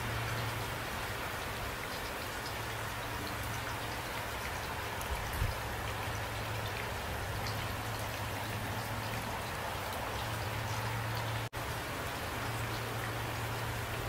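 Steady rain falling at night, an even hiss with scattered drop ticks, cutting out for an instant late on.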